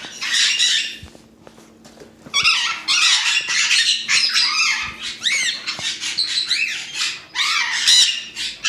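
Parrots squawking in loud bursts, with a short run of quick rising-and-falling calls about five seconds in.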